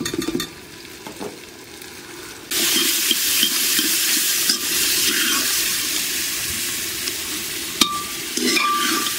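Onion-and-tomato masala frying in an earthen pot, its sizzle jumping up loud and steady about two and a half seconds in, while a metal ladle stirs and scrapes the pot with a few knocks near the start and near the end.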